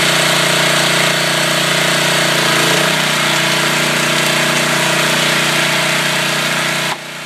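Small gasoline engine of an engine-driven log splitter running steadily; a little over two and a half seconds in its pitch drops and stays lower, and near the end the sound drops off abruptly.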